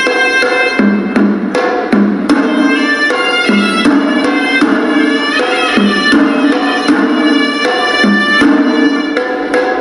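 Hewisi temple music: a horanawa, a reedy Sri Lankan double-reed pipe, plays a held, wavering melody over drums beating a brisk, steady rhythm of sharp strokes.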